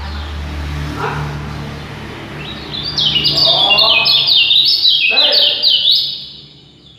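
A songbird singing: softer notes first, then from about three seconds in a loud, fast run of short, sharp chirps, each dropping in pitch, that stops about three seconds later.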